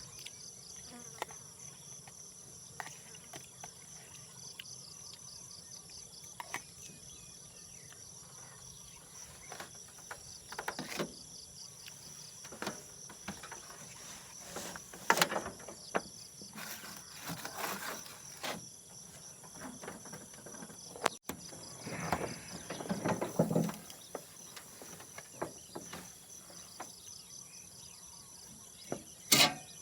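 Insects chirping in a steady high-pitched chorus, with a pulsing trill through parts of it. Scattered knocks and handling clatter come through the middle, loudest about halfway in and again past two-thirds, with a sharp click near the end.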